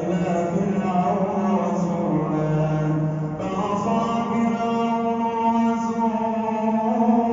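A man reciting the Quran aloud in the melodic chanted style of prayer recitation, drawing out long held notes. About two seconds in, his voice drops lower for about a second, then rises again.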